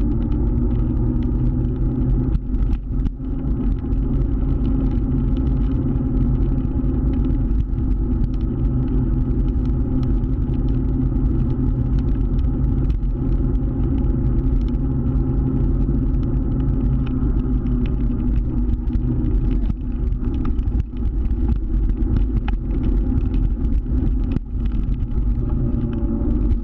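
Motor scooter engine running at a steady speed while riding, under a heavy low rumble.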